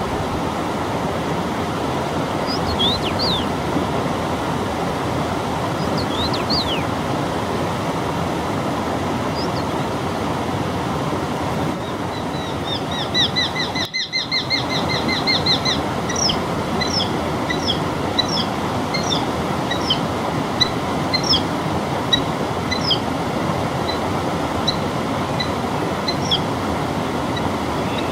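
Songbirds singing over a steady rushing background noise: a few scattered calls, then a rapid trill lasting about three seconds a little before halfway, followed by short chirps.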